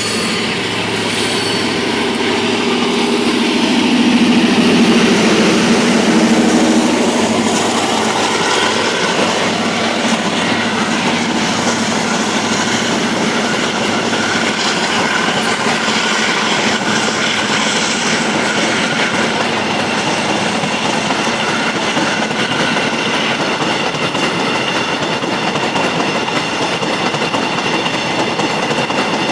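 A train passing close by: a loud, steady rumble of wheels on rail with clickety-clack. It is loudest about four to six seconds in, with a falling tone as the front goes past, then runs on steadily with a high ringing squeal from the wheels.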